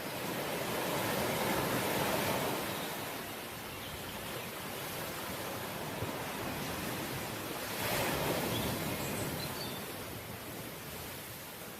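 Sea waves washing ashore, a steady rush that swells twice: about two seconds in and again about eight seconds in.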